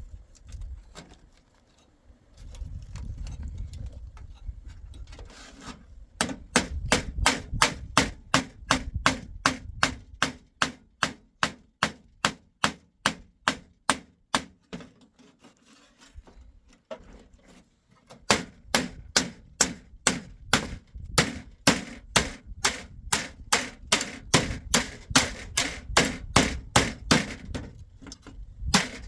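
Hammer driving nails into wood with quick, even blows, about three a second, in two long runs with a short pause between them.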